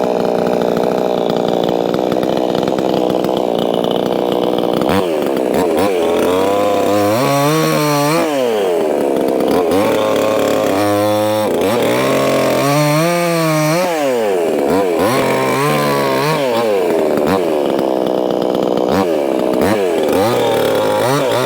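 Proyama 68cc two-stroke chainsaw cutting soft poplar. The engine holds a steady high pitch for the first five seconds or so, then its pitch rises and falls over and over, about every three seconds, as load and throttle change through the cuts.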